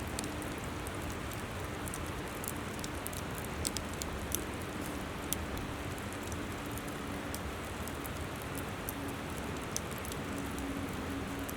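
Wood campfire crackling, with scattered sharp pops and a cluster of them around the middle, over the steady rushing of a flowing river.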